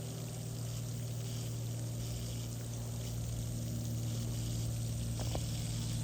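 Steady low machine hum under an even hiss of running water, with one faint tick about five seconds in.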